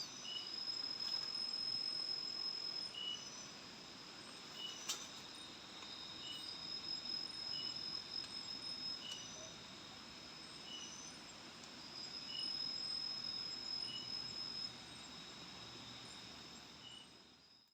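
Night forest insects chirring: a steady high-pitched trill that swells louder twice, with short chirps repeating about once every three-quarters of a second. The sound fades out at the very end.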